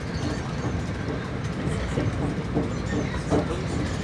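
TER regional train running along the line, a steady rumble of wheels on rails with some clickety-clack, heard from on board.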